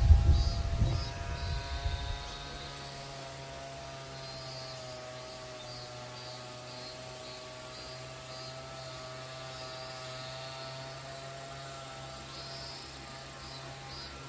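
A steady engine drone whose pitch wavers slowly, with faint pulsing chirps above it. Loud low rumbling in the first two seconds.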